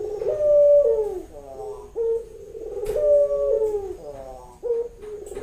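A female puter dove cooing repeatedly, a series of short falling coos about a second apart: the call a hen in breeding condition makes to summon a male.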